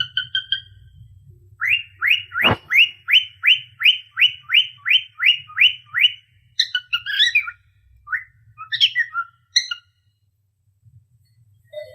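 Cockatiel whistling: a run of about a dozen quick rising chirps, evenly spaced at roughly three a second, with one sharp click among them, followed by a few scattered, more jumbled calls that stop near the end.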